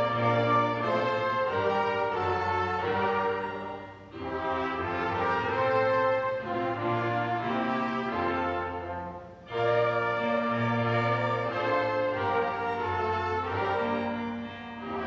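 A small church orchestra playing a Christmas piece, with brief breaks between phrases about 4 seconds and 9 seconds in.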